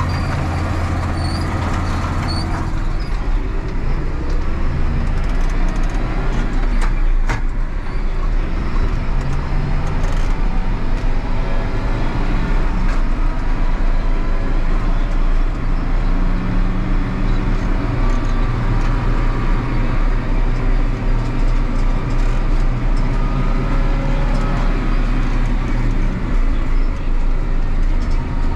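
Tractor engine running steadily while driving, its pitch shifting a little as the engine speed changes.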